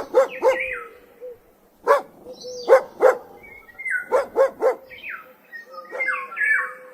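Dog barking in short groups of two or three barks, with higher-pitched whining calls between the groups.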